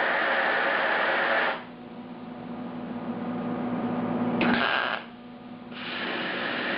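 Arc welding on thin car-door sheet metal: a crackling, hissing arc that runs for about a second and a half and stops. After a pause with a low hum there is a short half-second burst a few seconds in, and the arc starts again near the end.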